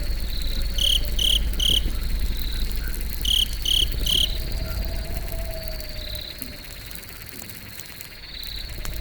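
Campfire ambience with crickets: two sets of three short cricket chirps over a steady high insect trill that pulses on and off, above a low rushing noise from the fire that dips for a couple of seconds near the end, with a few faint crackles.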